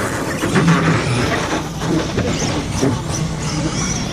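Radio-controlled monster trucks racing: their small motors whine, rising and falling in short glides over a steady noisy background.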